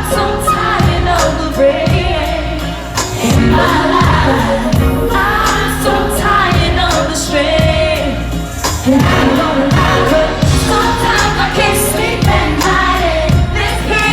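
Live R&B song played loud through an arena sound system: a woman singing over a steady drum beat, with backing vocals.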